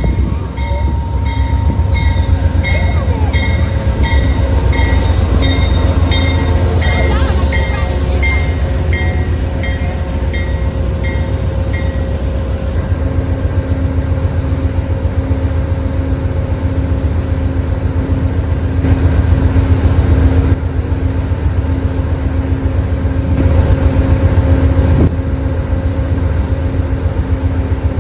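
Amtrak Cascades passenger train passing close by with a heavy, continuous rumble and a steady hum. A bell rings in regular strokes about twice a second, stopping about twelve seconds in.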